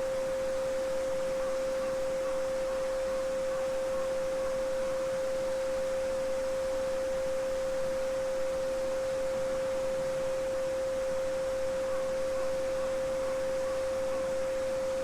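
A steady pure 528 Hz sine tone, the Solfeggio frequency, sounds over the even babbling of a small stream.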